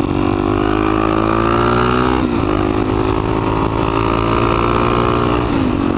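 Suzuki DR-Z400SM single-cylinder four-stroke engine accelerating under load, its pitch rising steadily and dropping sharply twice, about two seconds in and near the end, as it is shifted up through the gears.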